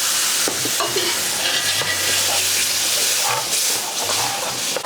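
A curry base of onion, garlic and spices sizzling loudly in oil in a hot pan just after gravy has been added. A utensil scrapes and taps against the pan as it is stirred.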